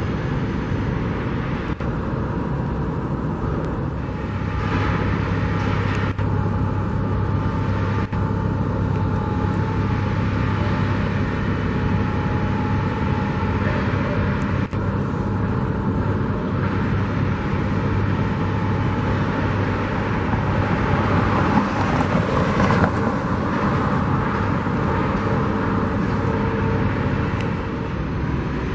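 Steady outdoor traffic and engine noise, with a low engine hum running underneath.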